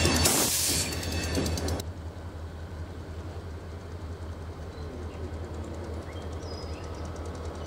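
Wheeling & Lake Erie freight train rolling on the rails. Loud rail noise with a hiss for about the first two seconds, then dropping to a quieter, steady low rumble.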